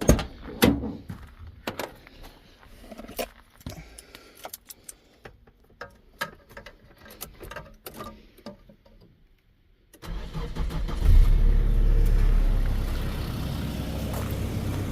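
A series of light clicks and knocks, then about ten seconds in a Nissan KA24E 2.4-litre four-cylinder engine cranks, catches and settles into a steady idle. It is the first start after a water pump and idler pulley replacement, run to push coolant through the thermostat.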